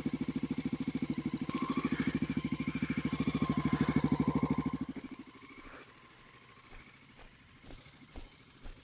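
A dirt bike engine running slowly with an even pulsing beat, which drops away about five seconds in. Only faint scattered ticks and clicks are left after that.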